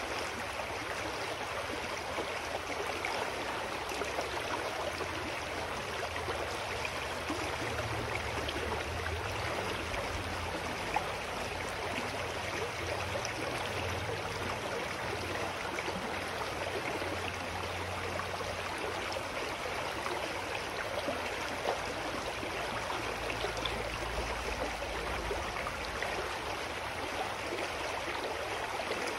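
Clear mountain stream flowing steadily, an even rushing and babbling of water. A faint low rumble comes and goes underneath.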